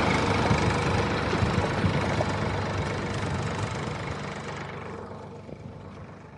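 Tractor engine idling, fading out steadily until it is almost gone at the end.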